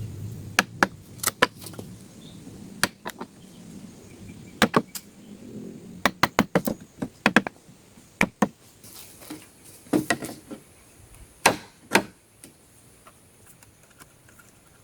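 An irregular series of sharp knocks and cracks, some in quick clusters, of wood and palm stems being chopped or struck by hand.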